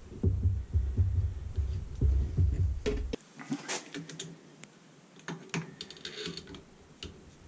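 Light clicks and taps of parts being fitted by hand to a Wabco air suspension compressor, with low thumping handling noise for about the first three seconds, then scattered single clicks.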